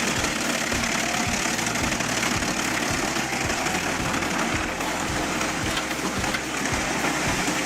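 A heavy machine's engine running steadily, with a regular low pulse about twice a second.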